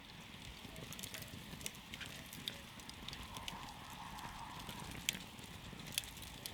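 Campfire crackling: burning wood giving off scattered sharp pops and snaps, with two louder pops about five and six seconds in.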